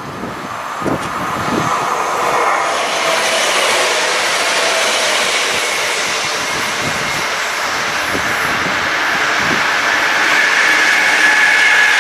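A train passing on the line: steady rolling noise of wheels on rail that builds over the first couple of seconds and then stays loud, with a few low thumps and a steady high-pitched tone toward the end.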